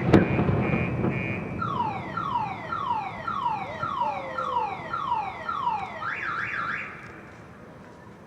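A firework boom rumbling away at the start, then a car alarm running through its tones: a string of falling whoops, about two a second, then a quick rising-and-falling warble that cuts off a little before the end.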